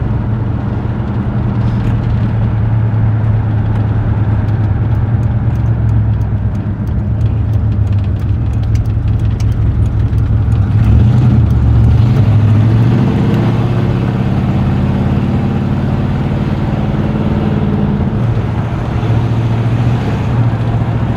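1968 Buick Wildcat's V8 engine running steadily as the car is driven, warmed up and running smoothly. The engine note picks up about eleven seconds in and settles back a few seconds before the end.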